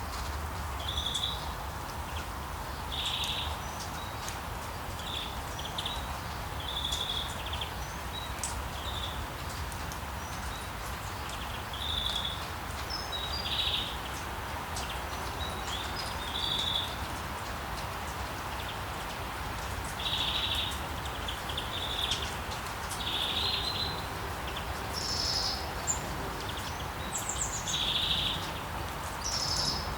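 Steady rain falling, with birds chirping over it in short calls repeated every second or two, and a few higher-pitched calls near the end.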